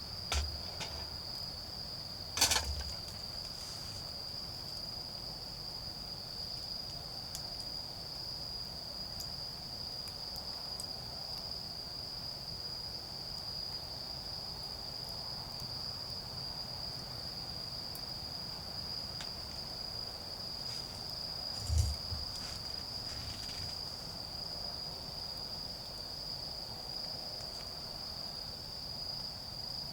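Autumn crickets singing in one steady, unbroken high trill. A couple of sharp clicks break in, one near the start and one about two-thirds of the way through.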